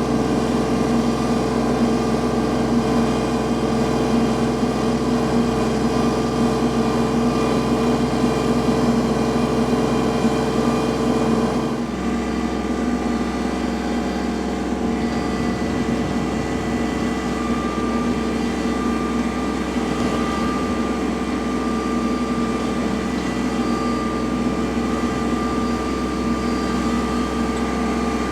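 Kubota L3301 tractor's diesel engine running steadily while clearing snow; about twelve seconds in, its note changes and it gets a little quieter, then holds steady.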